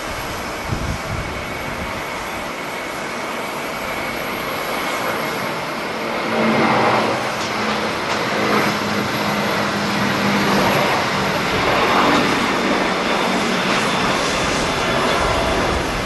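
Airliner jet engines running, a steady roar that swells about six seconds in, with a low hum and a thin high whine on top.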